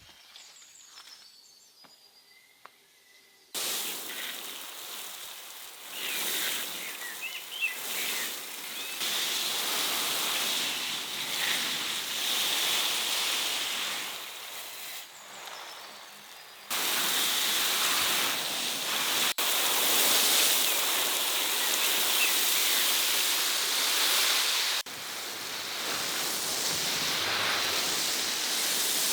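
Steady rushing water, a dense even hiss that starts suddenly about three and a half seconds in and jumps in level a few times.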